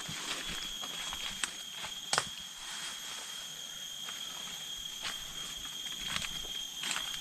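Scattered crackles and clicks like footsteps in dry leaf litter and undergrowth, with one sharper crack about two seconds in, over a steady high-pitched whine.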